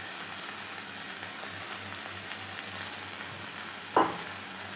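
Sprouted green moong beans sizzling steadily in hot oil in a kadhai, with one sharp knock about four seconds in.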